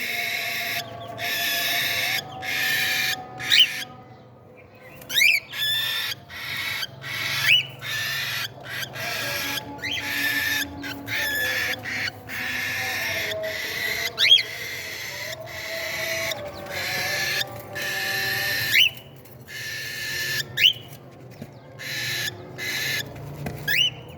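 Cockatiel chicks giving their raspy, hissing food-begging calls in repeated bursts about a second long, broken by short gaps, with a sharp rising squeak every few seconds.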